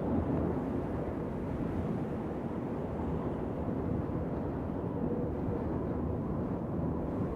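Wind blowing steadily: a low, rushing noise that swells and eases slightly.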